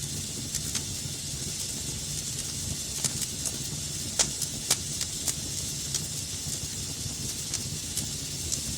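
Fire burning in a fireplace: a steady hiss and low rumble with irregular sharp crackles and pops, the two loudest pops coming close together about halfway through.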